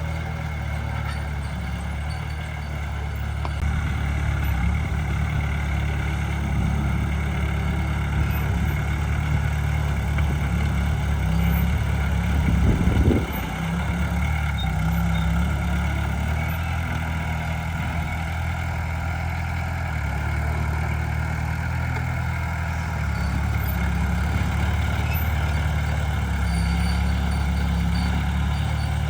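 Heavy diesel engine of earthmoving machinery running steadily, with a brief swell in loudness about twelve seconds in that cuts off suddenly.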